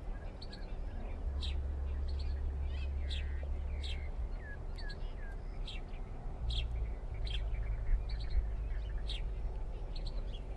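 Small birds chirping, short high chirps repeating every half second or so, with a few down-slurred notes near the middle, over a low steady rumble.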